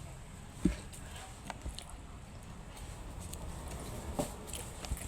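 Close-up eating sounds of someone chewing a soft mung-bean steamed bun, with small mouth clicks and one dull knock a little over half a second in.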